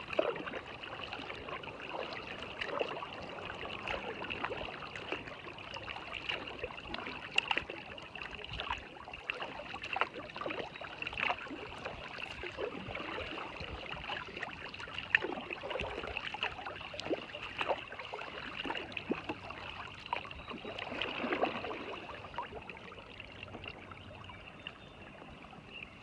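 Floodwater trickling and splashing, with a steady rush of moving water and many irregular small splashes and drips.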